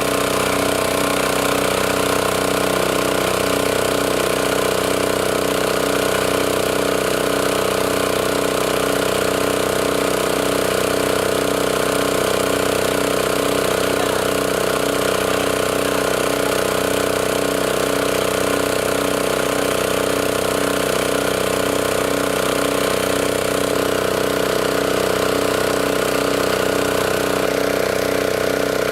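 Boat engine running steadily at constant speed, with an even throb about twice a second.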